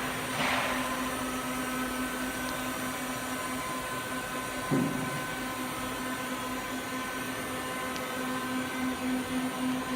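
Brother TC-R2A CNC drill and tapping center running with a steady hum, a short hiss just after the start and a single knock about five seconds in.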